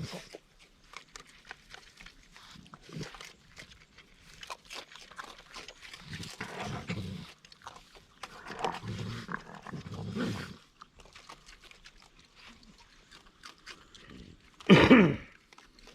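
Raccoons growling and chittering at one another while feeding: several short, rasping bouts, then one loud snarl near the end.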